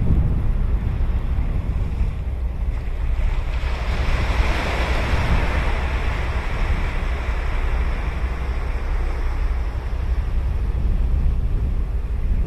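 Ocean surf: a wave breaks and washes in, swelling a few seconds in and slowly fading, over a steady low rumble of wind on the microphone.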